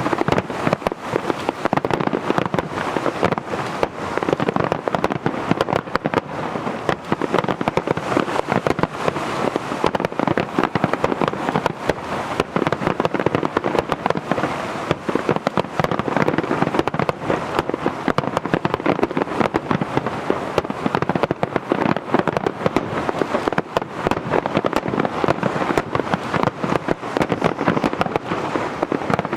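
Aerial fireworks in a dense, continuous barrage, many bursts and crackles a second without a break.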